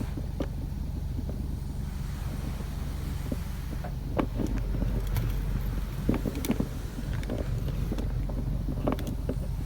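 Heard from inside a car in a LaserWash M5 touchless car wash: a steady low hum while the pre-soak is sprayed onto the car, with scattered splashes and taps against the body from about four seconds in.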